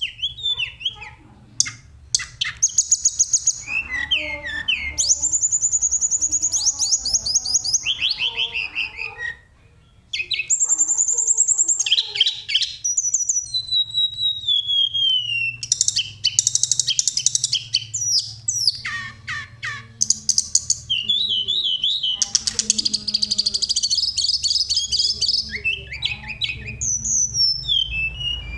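Tledekan gunung (sulingan) songbird singing loudly, mixing rapid high trills and rattles with clear falling whistles, with a brief pause about ten seconds in. This is the bird's full 'gacor' song as played for lure (pikat) recordings.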